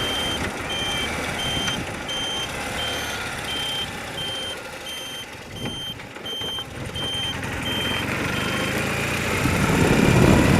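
A high electronic beeper sounding in quick even pulses, about three a second, over a motorcycle engine running. The beeping stops near the end, and the engine and road noise grow louder.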